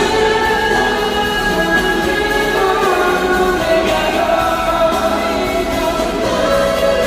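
Live K-pop concert music with sung vocals over the band track, loud and continuous, heard through an arena's PA system.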